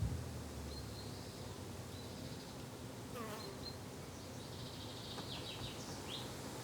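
Summer garden ambience: an insect buzzing steadily, with short high bird chirps and whistles scattered through, including a falling whistle about three seconds in. A brief low thump comes right at the start.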